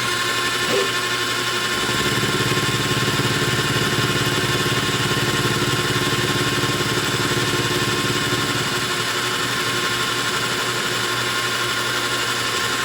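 Metal lathe running under power with a steady whine while milling a flat face on a copper bolt, taking a light pass of about ten thousandths of an inch. A deeper hum joins about two seconds in and eases off around nine seconds.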